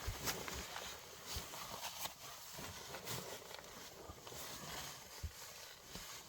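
Irregular knocks and clicks, a handful of them unevenly spaced, over a steady hiss.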